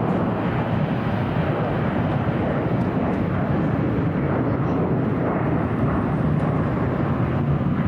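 Jet airliner engines running, a loud steady rumbling noise that holds even without rising or fading.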